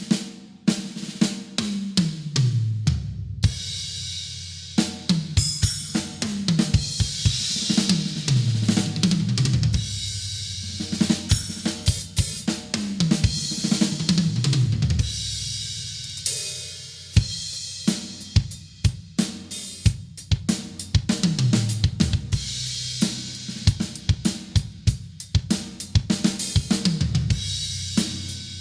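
A drum kit played through grooves of kick drum, snare, hi-hat and cymbals, recorded on basic home equipment. Several times a fill runs down the toms from high to low.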